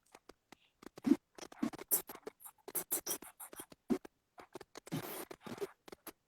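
Scratchy rustling and irregular taps and clicks close to the microphone, from hands and clothing moving; the sharpest tap comes about a second in.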